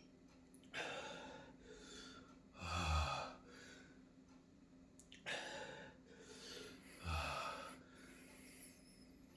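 A man breathing hard through a mouth burning from raw bird's eye chillies: four heavy breaths about two seconds apart, two of them with a low voice sound in them.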